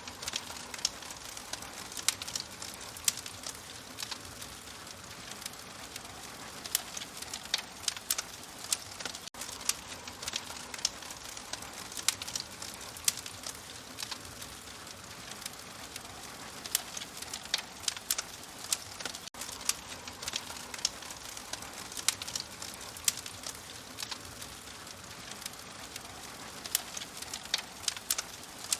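A fire crackling: frequent, irregular sharp pops and snaps over a steady soft hiss.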